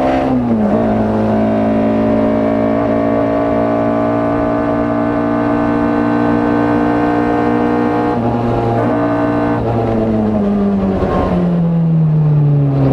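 Rally car engine heard from inside the cabin, running hard: its pitch drops quickly just after the start, as at a gear change, then climbs slowly and holds for several seconds, before falling steadily over the last few seconds as the revs come down.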